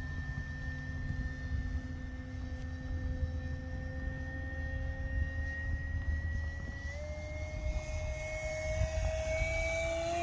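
Electric RC model airplane, an E-flite Carbon-Z Cessna 2.1 m, in flight: its electric motor and propeller make a steady whine that steps up in pitch about seven seconds in and grows louder near the end as the plane comes closer.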